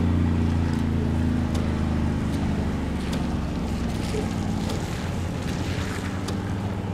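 Vehicle engine idling, a steady low hum whose pitch sinks slightly over the first few seconds, with a few faint ticks.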